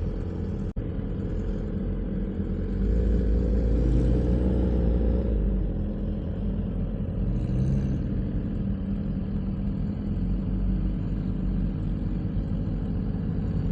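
Vehicle engine running steadily at low revs, a deep rumble that swells louder for a couple of seconds a few seconds in.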